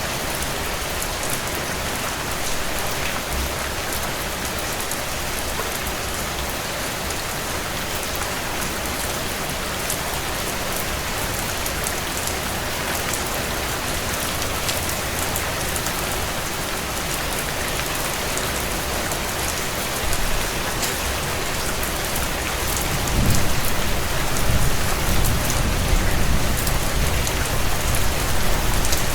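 Heavy rain drumming steadily on a tin roof, a dense hiss with many sharp little ticks of drops on the metal. A deep low rumble swells in near the end.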